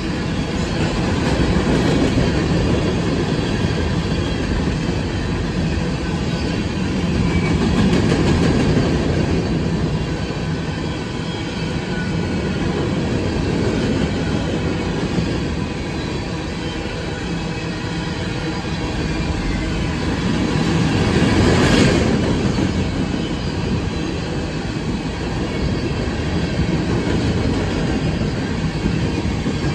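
Norfolk Southern freight train of covered hopper cars passing close by at speed: the steady noise of steel wheels running on the rails, swelling now and then and loudest about three quarters of the way through.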